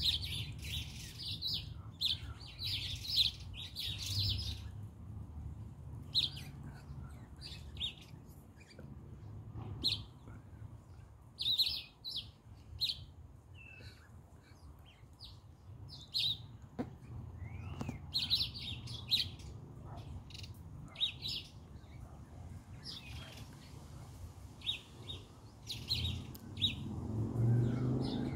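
Small garden birds chirping: short, high-pitched chirps in quick clusters, coming and going, over a low steady rumble.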